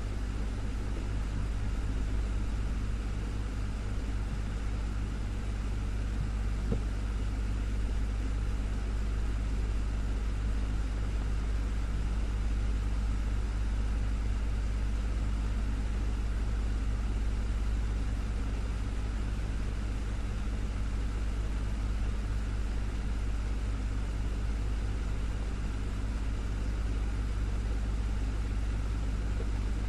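Desktop fan running steadily, a constant low drone with a faint hum. There is one small click about seven seconds in.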